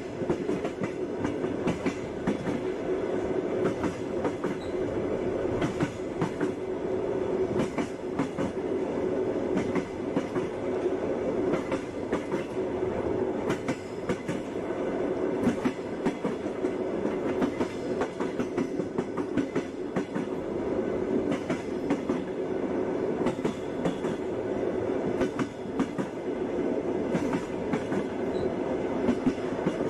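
Passenger train wheels clattering over rail joints, with a steady rumble and frequent sharp clicks.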